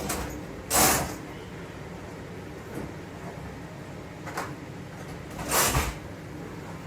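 Two brief sliding or scraping noises, one about a second in and one near the end, with a few faint knocks between, like household things being moved or opened.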